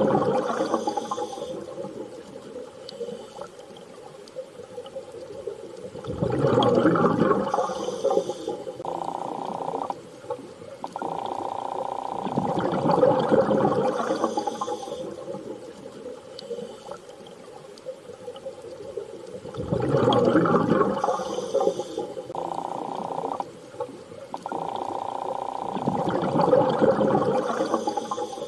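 Underwater sea ambience: rushing water swelling and fading about every six to seven seconds, with low held tones between the swells.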